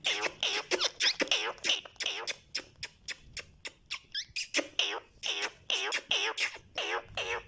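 Pet parrot chattering in a rapid run of short squeaky calls, about three or four a second.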